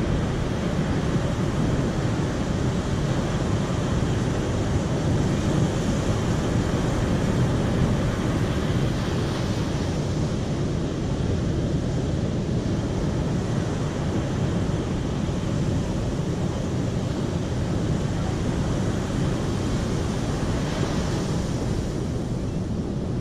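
Steady rushing of flowing water, a dense even roar heaviest in the low range, with no breaks.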